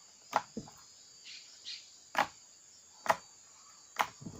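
Homemade slime being pressed and worked in the hands, giving a series of sharp clicks roughly once a second: the 'click' sound of slime.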